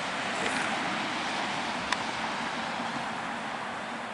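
Steady hiss of distant road traffic, with one sharp click about two seconds in.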